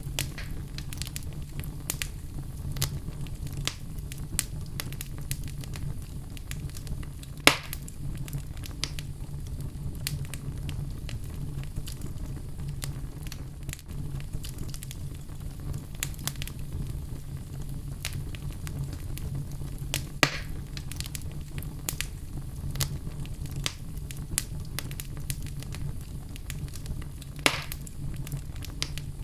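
Wood fire burning in a fireplace, with a steady low rumble and frequent sharp crackles, and three louder pops spaced several seconds apart.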